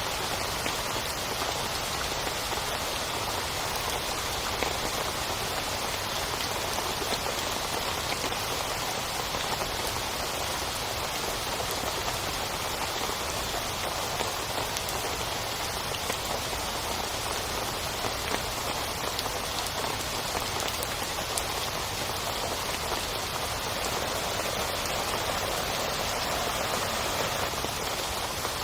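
Heavy rain falling steadily on a tent, a dense unbroken patter of drops with no let-up.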